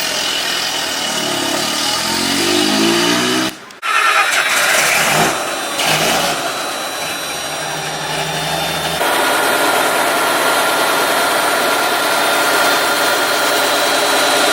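Old military vehicle engines running in several short cut-together clips, with abrupt changes about 4 and 9 seconds in. In the first clip an engine is revved and its pitch rises and falls; the last clip is a steady engine run.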